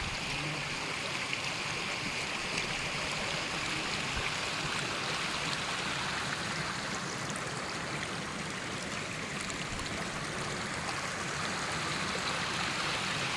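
Fast-flowing stream of floodwater from heavy rain rushing and splashing over rocks in a steady, unbroken flow.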